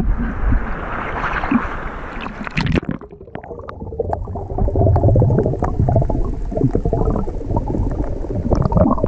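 Sea water splashing around the microphone in rough surf, then from about three seconds in a muffled, low gurgling and sloshing as the microphone goes under the water.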